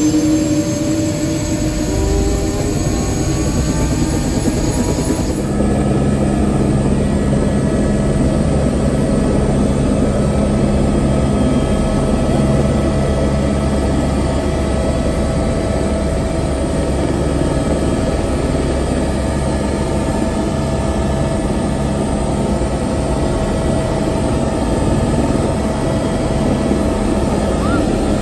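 AS350 helicopter's single turbine engine and rotor, heard from inside the cabin, running steadily with a whine that rises briefly in the first couple of seconds.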